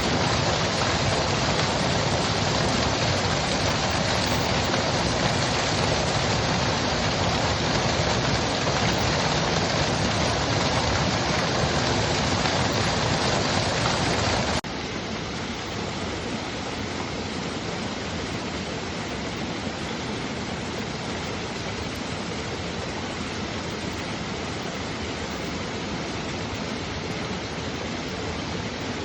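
Mountain stream water rushing steadily over rocks. About halfway through it cuts suddenly to a quieter, softer rush.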